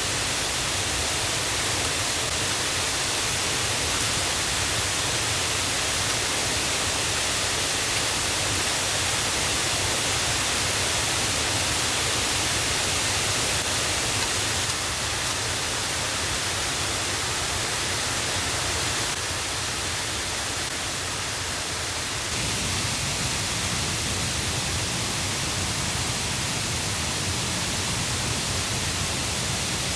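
Steady rush of a mountain stream and waterfall running high and loud after rain, a dense even hiss of water. The low rumble in it grows a little about three quarters of the way through.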